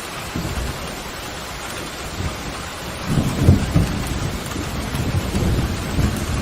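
Steady heavy rain hissing, with a roll of thunder rumbling in about halfway through and building to the end.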